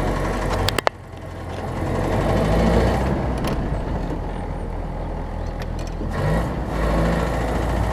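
1968 Land Rover Series IIA engine running, with two sharp clicks just under a second in, after which the engine sound swells for a couple of seconds and then holds steady.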